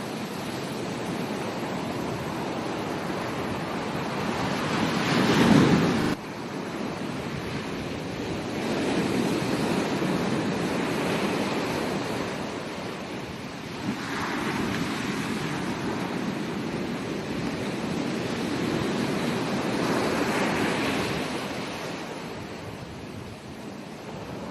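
Ocean waves breaking and washing up a beach, the surf noise swelling and falling back every few seconds. The loudest surge comes about five seconds in and cuts off suddenly.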